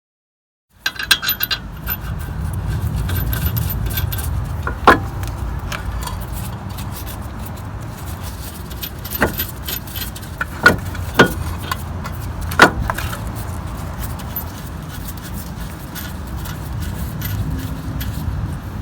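Metal brake parts clinking and knocking as they are handled and fitted, in a run of sharp separate clicks over a steady low rumble.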